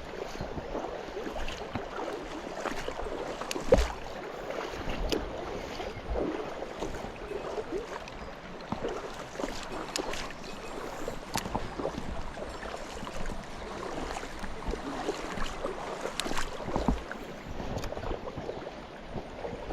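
Small stream running, with irregular splashes and knocks scattered through it; the sharpest knock comes about four seconds in.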